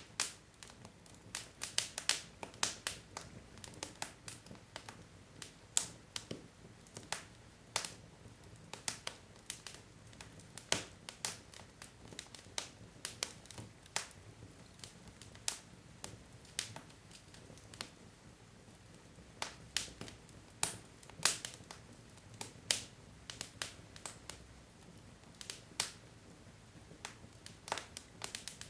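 Wood fire crackling: burning logs give off sharp irregular pops and snaps, several a second at times, over a faint low hiss.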